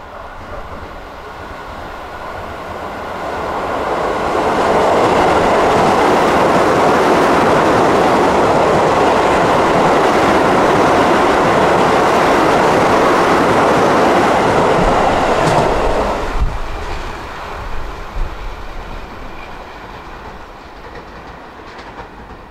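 Keio 9000-series electric commuter train passing through a station at speed without stopping. Its rumble builds over a few seconds and holds loud for about ten seconds, then drops away sharply. A few wheel clacks over rail joints follow as the last cars go by.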